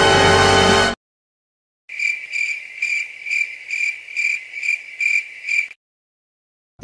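Cricket chirping sound effect: a high, shrill chirp repeating about twice a second for nearly four seconds, the stock "awkward silence" cue used in comedy edits. It follows a music clip that cuts off suddenly about a second in.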